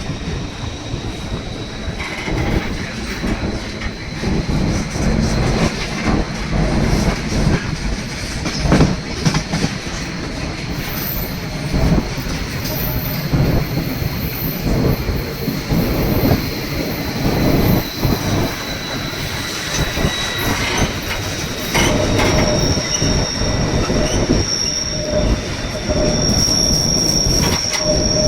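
Narrow-gauge passenger train rolling along with a low rumble, irregular clacks from the wheels over the rails, and a long high steady wheel squeal; a second, higher squeal joins about two-thirds of the way in.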